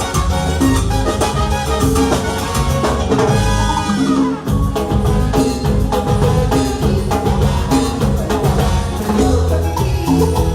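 Live band playing cumbia with percussion and a steady dance beat, with a quick downward slide about three and a half seconds in.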